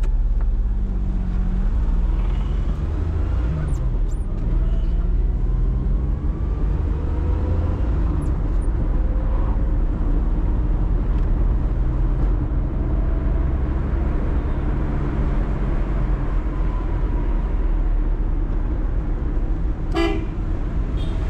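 1997 Maruti 800's 796 cc three-cylinder petrol engine running under way, its note rising and falling as it is driven, over road noise. A short horn toot sounds near the end.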